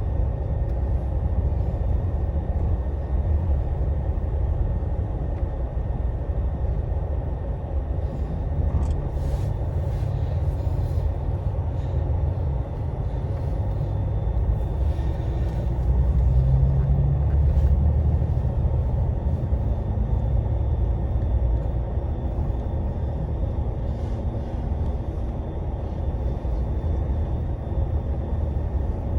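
Steady low rumble of a Scania Astromega double-decker highway bus under way, engine and road noise heard from inside the cabin, swelling slightly about halfway through.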